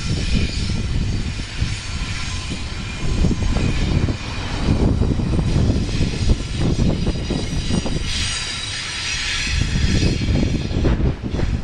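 Freight trains rolling past close by: a loud, continuous low rumble of wheels on rail with a hiss above it that brightens about eight seconds in.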